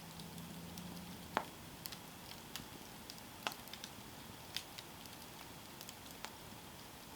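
Campfire burning with a soft steady hiss and irregular wood crackles and pops, the loudest a sharp pop about a second and a half in.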